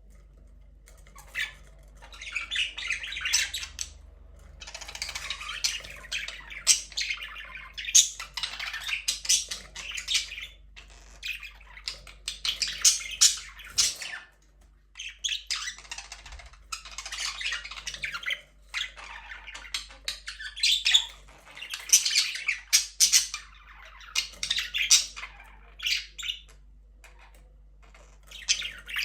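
Budgies chirping and chattering in bursts of a second or two, with sharp squawks among them, over a faint steady low hum.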